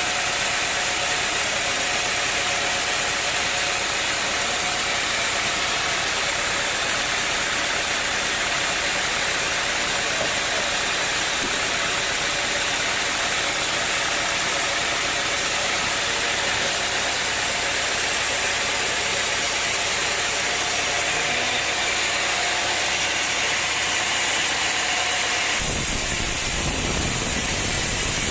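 A steady mechanical noise of an engine running, with a faint steady hum through it. About 25 seconds in it changes abruptly to a rougher, deeper sound.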